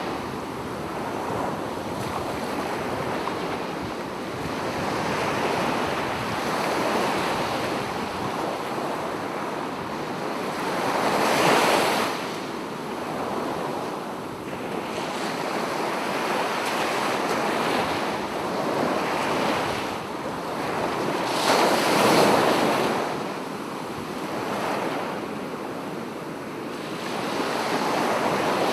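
Sea waves washing onto a beach: a continuous rush of surf with two louder breakers, about eleven seconds in and about twenty-two seconds in.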